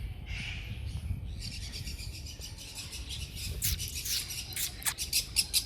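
Many small aviary birds chirping and twittering together, a dense run of quick high chirps that thickens about a second in, over a low rumble.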